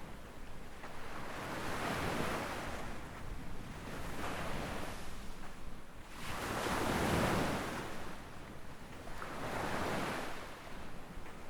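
Gentle waves breaking and washing up a sandy beach, the surf swelling and fading about every two to three seconds, the biggest wash a little past halfway.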